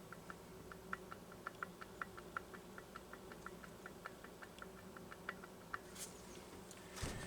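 Faint, rapid clicking, about six clicks a second, from a Homelite Super XL chainsaw's crankshaft being rocked back and forth by hand at the clutch, with a couple of louder knocks near the end. The clicking is play in the bottom end, which the repairer puts down to a shot connecting-rod or wrist-pin bearing.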